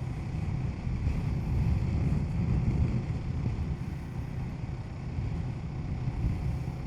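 Kawasaki Z650's parallel-twin engine droning steadily under way, mixed with wind rush, as heard from a mic inside a full-face helmet. It swells a little about two seconds in and eases off again.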